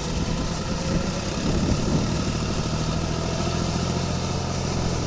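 John Deere 5042 tractor's diesel engine running steadily at a low, even speed.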